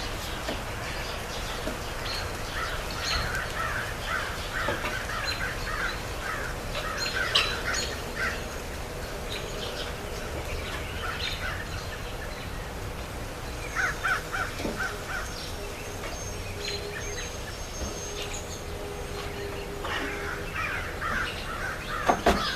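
Birds calling outdoors: many short calls over a low background rumble, with a faint steady hum for a few seconds past the middle.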